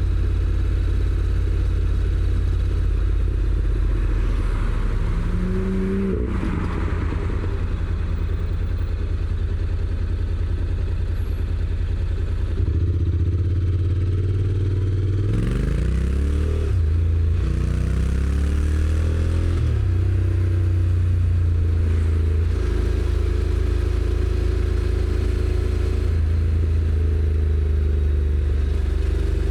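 Honda NC750X parallel-twin engine through its stock exhaust, heard from the rider's seat. It runs steadily, then about halfway through it accelerates: the pitch climbs and drops back at each of two gear changes of the dual-clutch transmission, before settling into steady cruising.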